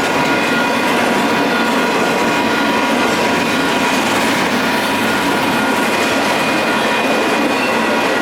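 Union Pacific intermodal double-stack freight train rolling through at speed: steady, loud wheel-on-rail noise with a few thin, steady high tones running through it.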